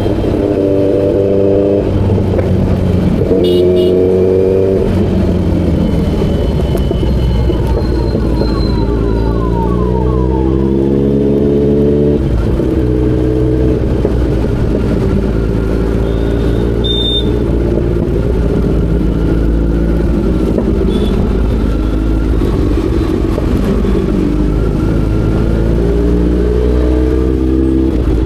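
Kawasaki Z900's inline-four engine running as the bike is ridden. Its pitch climbs and drops several times as it accelerates and shifts through the gears. A few short high tones are heard briefly.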